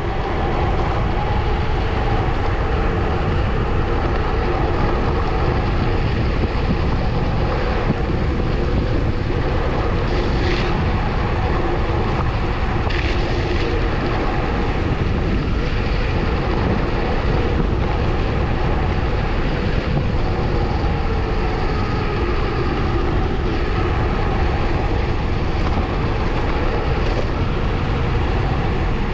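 Wind rushing over the microphone on a fast bicycle descent, a heavy steady rumble with a constant hum beneath it. Two short high-pitched sounds come about a third of the way through.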